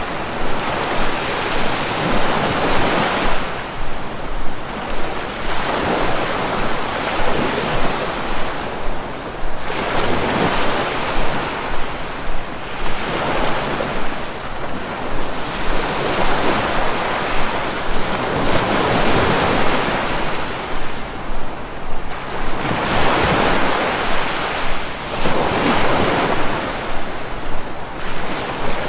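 Sea waves breaking, the surf swelling and fading every few seconds.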